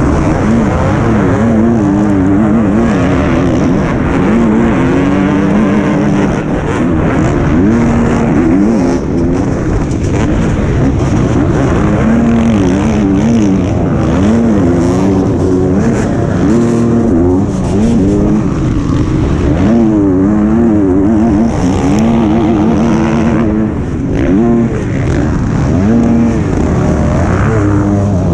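Motocross bike engine heard onboard, its revs rising and falling continually as the rider opens and closes the throttle and shifts through the track.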